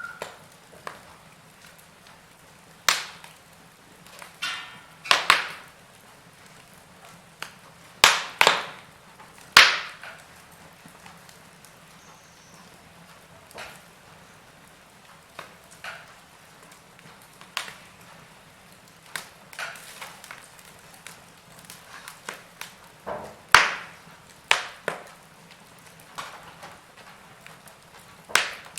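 Wood fire in a fireplace crackling, with irregular sharp pops at uneven gaps of one to a few seconds, some much louder than others, over a faint steady hiss.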